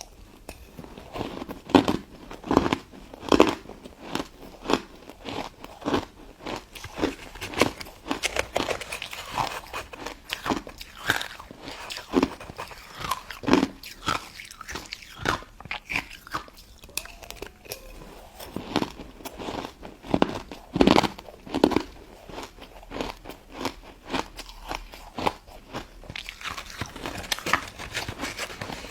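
Close-miked biting and chewing of a crunchy crystal ice dessert, with many sharp, irregular crunches.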